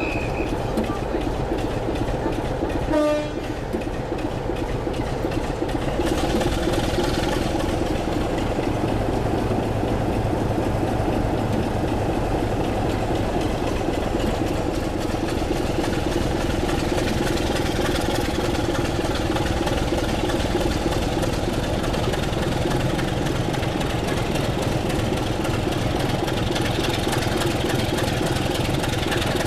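Diesel locomotive running on a heritage line, its engine and wheels giving a steady dense noise. A short horn blast sounds about three seconds in, and the engine grows louder from about six seconds and then holds steady.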